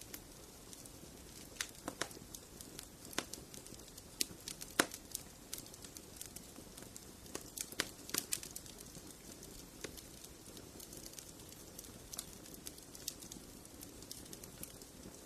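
Wood fire in a fireplace crackling and popping: irregular sharp snaps, sometimes in quick clusters, over a soft steady hiss of burning.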